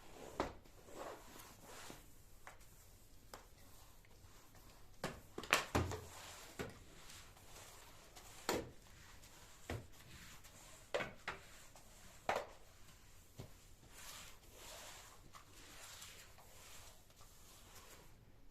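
Household objects being handled and set down during cleaning: scattered knocks and clicks at an uneven pace, with a cluster of louder knocks about five and a half seconds in and another sharp knock about twelve seconds in.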